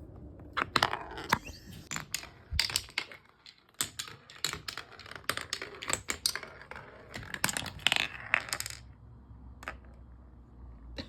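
Marbles rolling and clacking through a wooden Hape marble run: a busy run of sharp, irregular clicks and knocks for about eight seconds, then a single click near the end.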